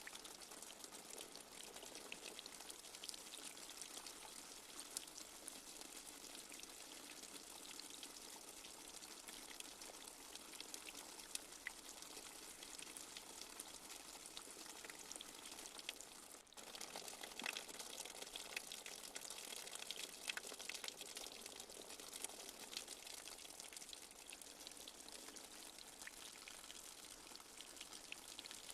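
Light rain falling steadily: a soft hiss dotted with many small drop patters. It cuts out for a moment about halfway through, then comes back a little louder.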